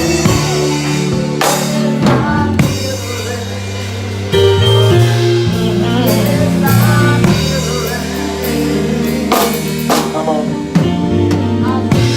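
Gospel band music with a drum kit and cymbal crashes, bass, held keyboard chords and a voice singing.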